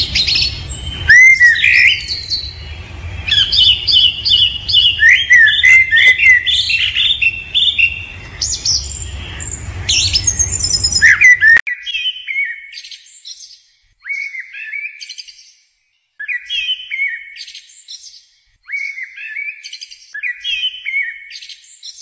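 Birds chirping and singing: for about the first half, many overlapping chirps and song phrases over a low background rumble. It then cuts abruptly to short bursts of chirping repeated every two seconds or so, with silence between them.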